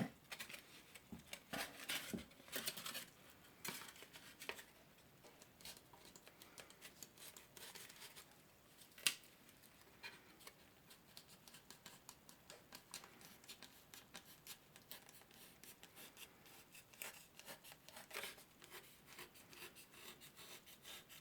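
A knife cutting and shaving the edge of a styrofoam tray: faint, irregular scratchy strokes in runs, busiest at the start and again near the end, with one sharp click about nine seconds in.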